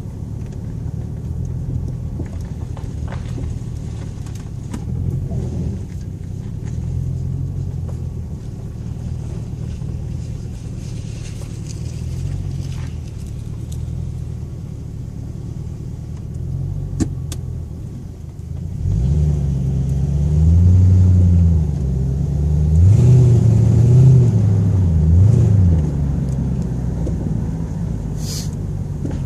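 Ford Thunderbird driving, its engine running with a steady low note. About two-thirds of the way through it gets louder, and the engine pitch climbs and drops a few times as the car accelerates, then settles back to a steady cruise.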